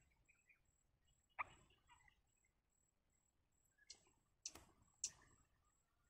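Short sharp chirps from small songbirds at a nest: one about a second and a half in, then three in quick succession near the end. Behind them is a faint, evenly pulsing high insect trill.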